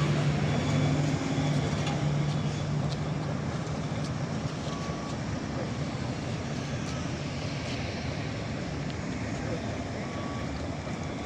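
Heavy diesel truck engine running with a steady low hum that eases off after the first few seconds, over a constant rumble. A short, faint high beep sounds about every five seconds.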